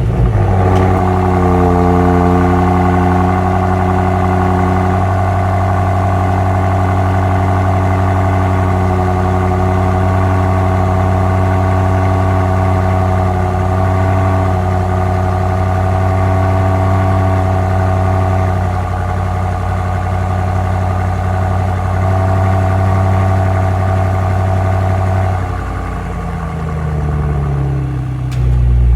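Stock BMW X5 M Competition's twin-turbo V8 running at a steady, loud fast idle just after a cold start. Near the end the idle speed drops, the engine note falling in pitch as it settles.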